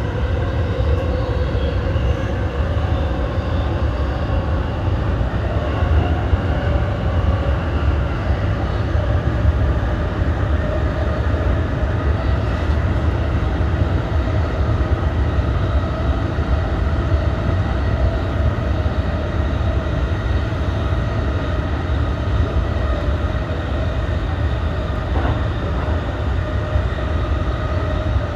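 E233-1000 series electric commuter train running along the line: a steady rumble of wheels on rail with a hum that rises slightly in pitch.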